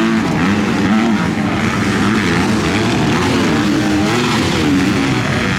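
Motocross bike engines racing, revving up and down repeatedly as the riders work the throttle.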